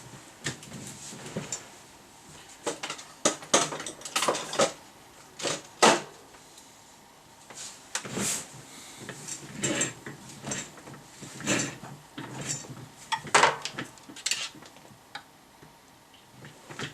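Irregular clinks, clicks and knocks of metal tools and parts being handled on a workbench.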